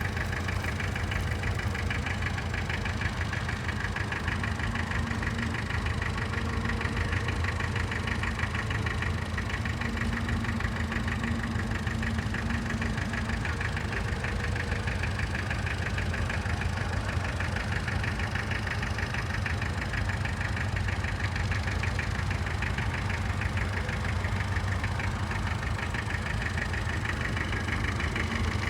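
Tractor engine running steadily, its firing an even rapid beat with no change in speed.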